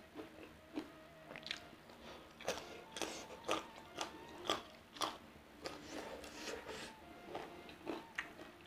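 A person chewing crunchy food close to the microphone, with crisp crunches at about two a second through the middle.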